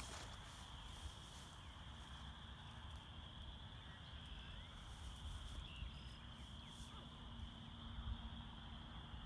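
Faint, steady chorus of spring peepers, their calls blending into one continuous high ringing, with low wind rumble on the microphone.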